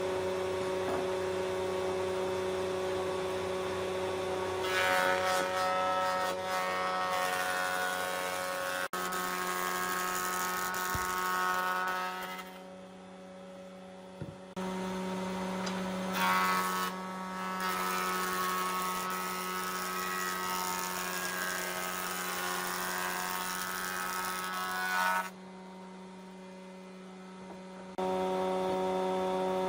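Electric power-tool motor running steadily with an even, pitched hum, dropping quieter twice and coming back up abruptly.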